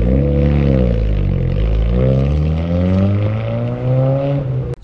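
Car engine revving: the pitch rises, dips back, then climbs steadily before cutting off suddenly near the end.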